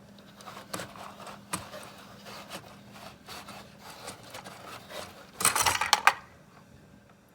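Plastic toy being handled: light rubbing and clicks of a Playmobil toy cable-car gondola moved along its cable, with a louder rattling scrape lasting about half a second a little past the middle.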